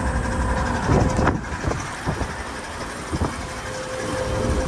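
Outdoor air-conditioner condensing unit running: a steady rush of fan air with a constant hum. A few short knocks come about a second in and again around three seconds.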